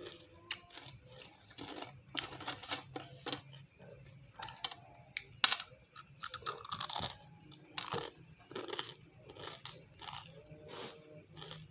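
Close-up chewing of crunchy raw mustard greens (sawi), with irregular wet crunches and crackles from each bite.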